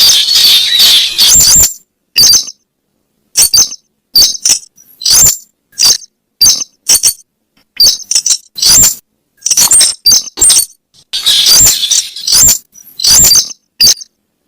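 Weris bird lure call: short, sharp, squeaky calls in quick clusters about once a second, with dead silence between them and a denser run of calls near the end.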